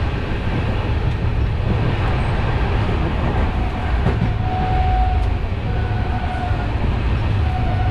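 Interior of a moving Shram Shakti Express passenger coach: a steady low rumble of the wheels running on the track. A faint thin whine comes and goes in the second half.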